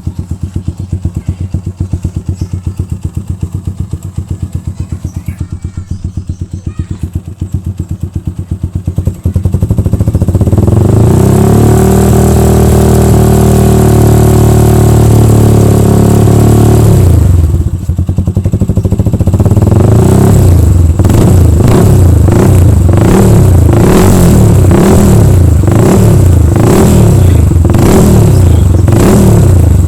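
Yamaha Scorpio single-cylinder four-stroke engine running through an HNR H3 Long racing exhaust. It idles for about nine seconds, is revved up and held high for about six seconds, drops back, then is blipped repeatedly, about once a second.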